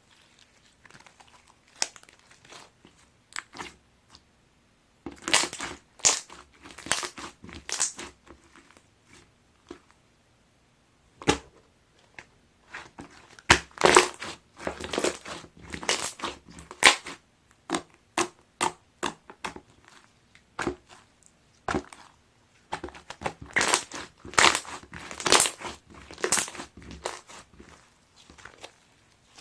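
Clear slime being squeezed and worked by hand, giving dense runs of sharp, sticky clicks and pops in three spells, with sparser clicking in the quieter stretches between.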